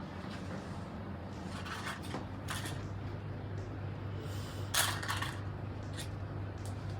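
A steady low electrical hum with a few short rustling, handling noises, the clearest a little before the five-second mark.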